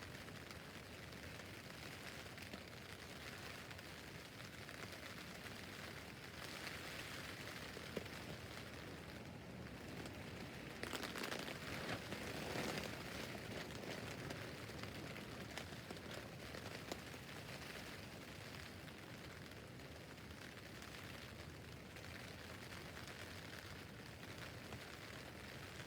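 Rain falling on a tent roof: a steady patter that swells louder for a couple of seconds near the middle, with the odd sharper drop tap.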